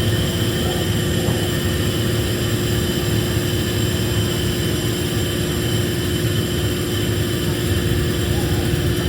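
Diesel locomotive running at a steady, unchanging drone, with a steady whine over the low rumble.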